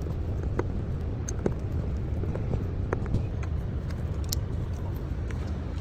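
Car engine running steadily, with scattered light clicks and taps over it.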